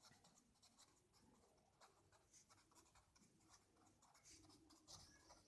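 Near silence with faint scratching of writing, a pen or marker moving in short strokes.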